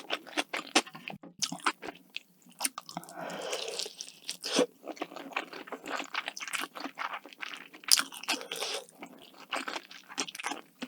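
Close-miked eating: crisp crunching bites and chewing in a rapid run of sharp crunches, with a softer, smoother stretch about three seconds in.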